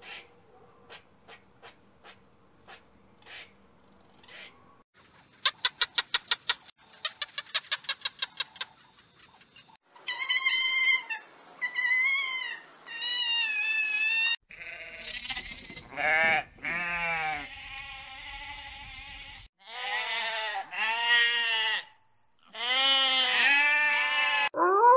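A series of different animal sounds: first a string of sharp clicks, then two runs of fast high-pitched trills, then repeated pitched calls that rise and fall, grow louder and more drawn-out, and sound like bleating livestock near the end.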